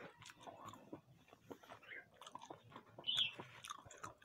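A person chewing food close to the microphone, with small irregular wet clicks and one louder short burst about three seconds in.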